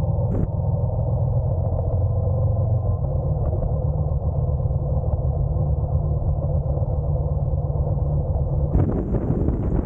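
Honda NC750X DCT motorcycle's parallel-twin engine running steadily under way, with a steady low hum. Near the end a rush of wind on the microphone comes in over it.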